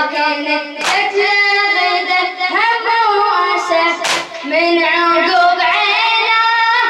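A boy's voice singing a Shia Muharram latmiya elegy without instruments. Loud, sharp strokes from a group beating their chests in unison mark the beat about every three seconds.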